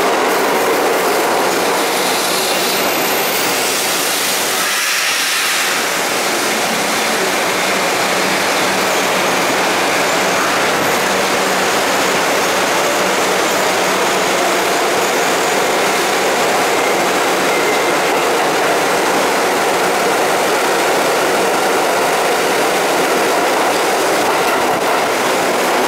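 R62A New York City subway train running on the IRT 7th Avenue Line: steady, loud rail and wheel noise, with a brief dip about five seconds in.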